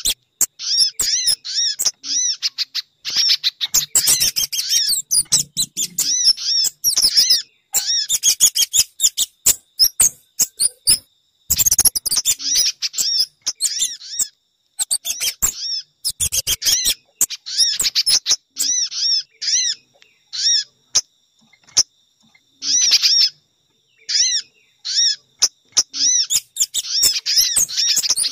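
Looped bird-lure recording of small-bird calls: rapid series of high, sharp chirps in repeated bursts broken by short pauses. It is a mix of sogon, spiderhunter and kemade calls played to draw those birds in.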